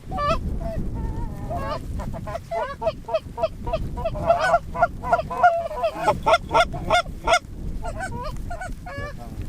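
Canada goose honks and clucks in quick succession, many overlapping and densest in the middle, over a steady low wind rumble on the microphone.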